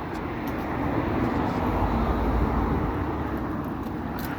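A car passing on the street: tyre and engine noise swell to a peak about halfway through, then fade.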